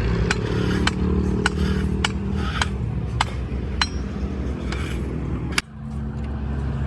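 A hammer striking metal in a steady series of sharp clinks, about one blow every half second or so, over the drone of an engine running. About five and a half seconds in, the sound cuts off abruptly and the engine drone carries on alone.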